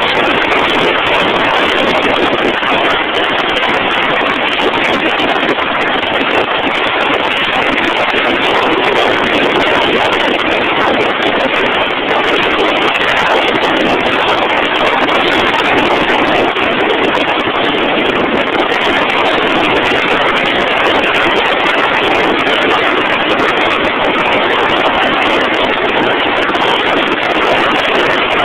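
Drilling rig machinery running steadily: a loud, even noise that neither rises nor falls.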